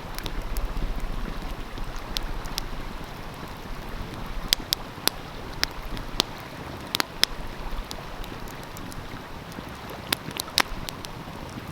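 Wood fire crackling with sharp, scattered pops, most of them in the middle and a couple near the end, over the steady rush of a flowing stream.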